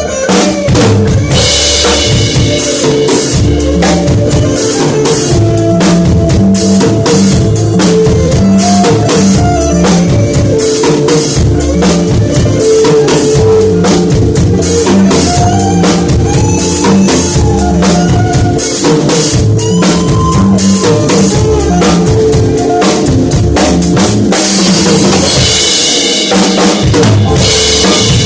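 Drum kit played in a steady groove, with kick drum, snare and rim shots, over music that holds sustained pitched notes. The cymbals come in brighter near the start and again near the end.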